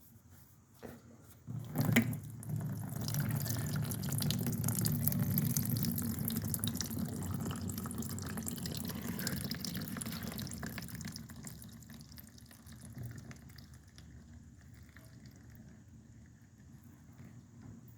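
A sharp knock about two seconds in, then engine oil pouring out of the car's oil pan drain into a drain pan. It is a heavy, steady stream that tapers off after about ten seconds to a thinner trickle.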